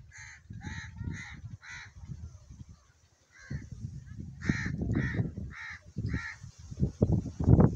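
A bird calling repeatedly, about two calls a second, in two runs with a short pause between them. Underneath is a low rumbling noise on the microphone that becomes the loudest sound near the end.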